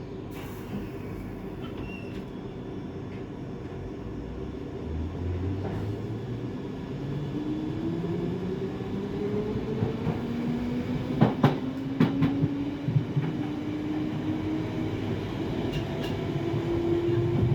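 London Underground Piccadilly line 1973 stock train running and pulling away, its motor whine rising steadily in pitch as it picks up speed over a constant rumble. Sharp wheel clicks over rail joints come about eleven to twelve seconds in, heard from inside the carriage.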